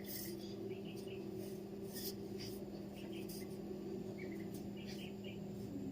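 Faint, short bird chirps, a handful scattered through the few seconds, over a steady low hum.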